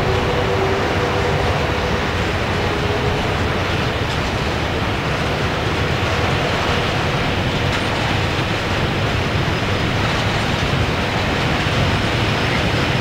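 Freight train of tarpaulin-covered Shimms coil wagons rolling past, the steady rolling noise of its wheels on the rails. A faint whine of thin tones fades out in the first few seconds.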